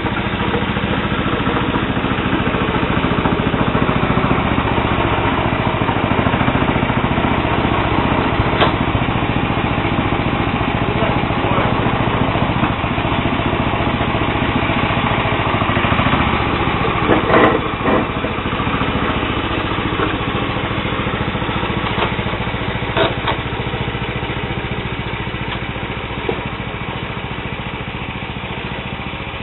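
Sears Suburban SS12 garden tractor's 12 hp Tecumseh HH120 single-cylinder engine running steadily, with a few short knocks, the loudest about 17 seconds in.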